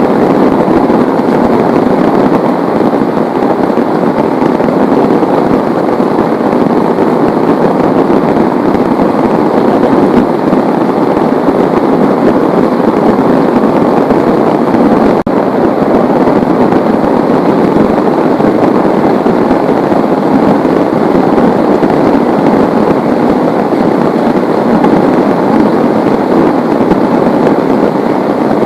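Heavy rain pouring down in a steady, dense, loud patter.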